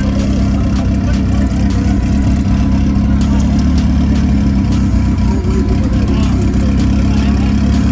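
The engines of a K24 Honda Integra and a turbocharged 4G63 Mitsubishi Mirage idling together, a loud, steady low rumble.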